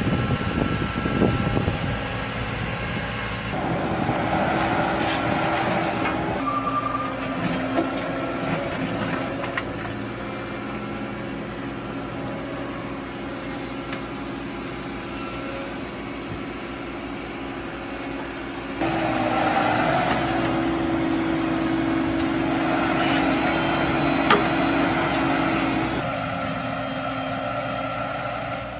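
A heavy machine's engine running steadily, its pitch and load shifting. It gets louder for several seconds after the middle, then drops back.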